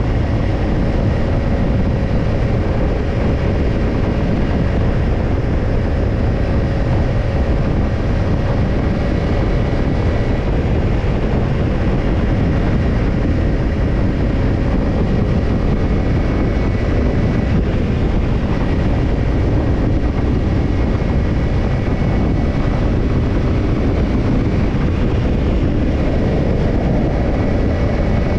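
Kawasaki Ninja 250's parallel-twin engine running steadily through a BEET NASSERT Evolution Type II titanium slip-on muffler, holding an even, unchanging exhaust note.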